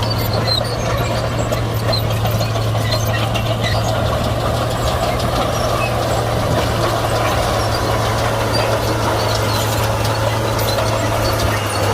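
Komatsu D41P bulldozer's diesel engine running steadily, a constant low drone that holds the same pitch throughout.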